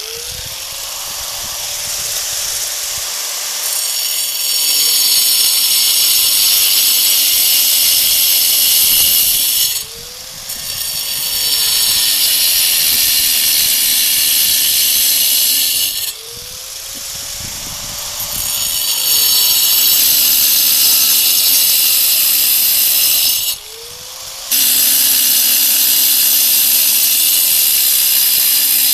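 Angle grinder cutting brick: the motor spins up, then the disc bites into the brick in four long cuts, the motor briefly speeding up with a rising whine each time the disc comes out of the cut.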